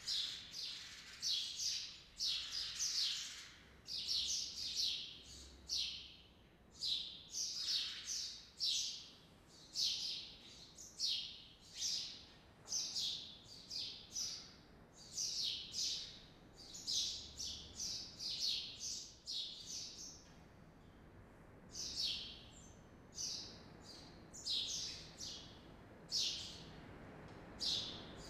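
Small birds chirping repeatedly: short, high, falling chirps in quick runs of two or three, with brief pauses between runs.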